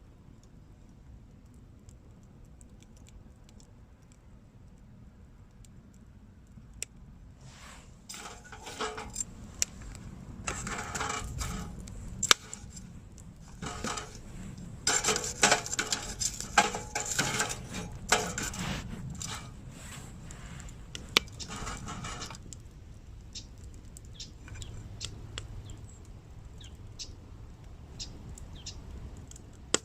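Light clinking and rattling of small hard objects, scattered ticks at first, then dense clattering through the middle, thinning back to scattered ticks near the end.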